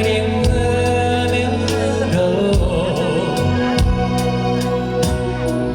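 Live rock band playing between sung lines of a ballad: a steady drum beat about twice a second under bass and held guitar and keyboard chords.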